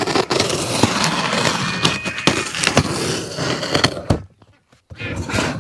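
A shipping package being torn open by hand: a long crackling, ripping and rustling that stops about four seconds in, then a shorter burst near the end.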